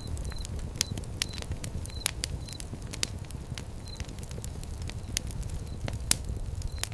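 Wood fire crackling: irregular sharp pops and snaps over a low, steady rumble of flame. A faint high chirp comes now and then in quick groups of two or three.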